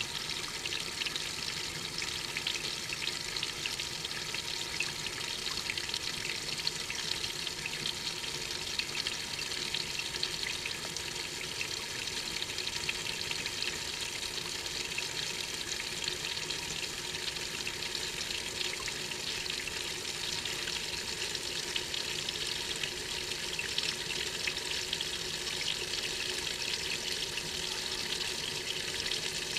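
Water running and splashing in a Maytag washing machine tub, heard from inside the tub: a steady hiss with a fine crackle that does not let up.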